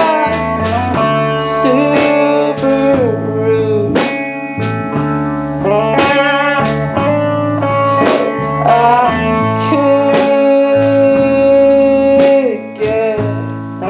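Live band music in a blues-rock style: a guitar lead with sliding, bending notes over bass and drums keeping a steady beat.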